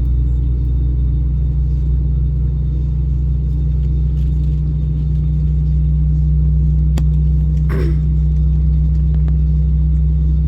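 Airbus A320 cabin during the takeoff roll: a loud, steady low rumble of the jet engines at takeoff power and the wheels on the runway. A brief click about seven seconds in.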